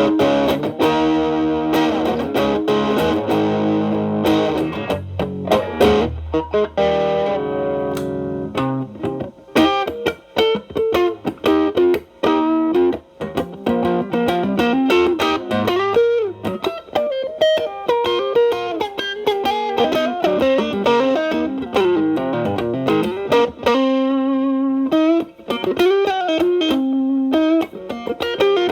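Telecaster with alnico single-coils played through an MXR Distortion+ stacked with a Boss SD-1 into a Marshall Valvestate's clean channel. Thick distorted chords ring for the first eight seconds or so. Then the tone cleans up into lighter single-note blues licks.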